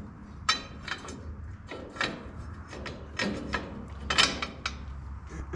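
Metal parts and hand tools clinking and knocking as they are handled during reassembly, in irregular strikes with the loudest about four seconds in. A low steady hum runs underneath.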